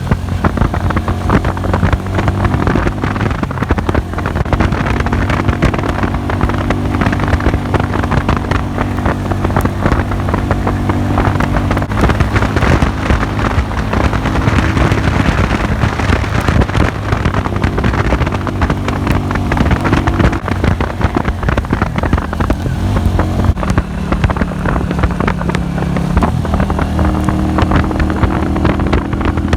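Engine of a Classic Earl 150 cafe racer motorcycle running under way. Its note steps up and down in pitch several times as engine speed changes, over steady wind noise on the microphone.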